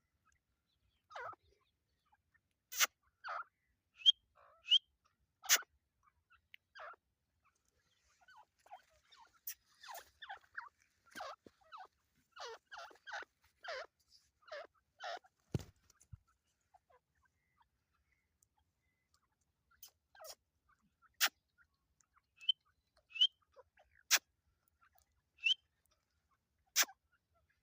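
Teetar (partridges) calling: scattered short, sharp notes, with a run of rapid chattering calls in the middle and short pauses in between.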